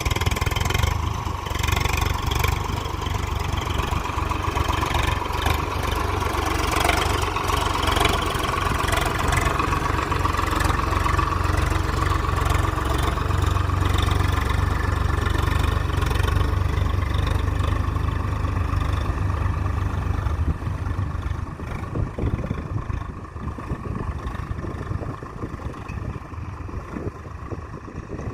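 Heavy diesel engine of earth-moving machinery running steadily, growing quieter about twenty seconds in.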